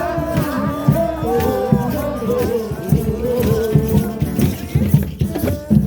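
Drum circle: many drums struck in a steady, busy rhythm while a group of voices sings along.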